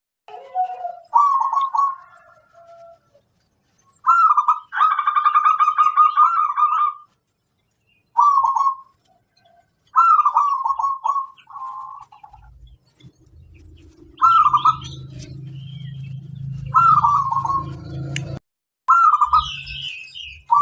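A zebra dove (perkutut) singing its rolling, stuttering coo phrases again and again, with short pauses between them; the longest phrase comes about five seconds in. A low hum sits underneath for several seconds near the end.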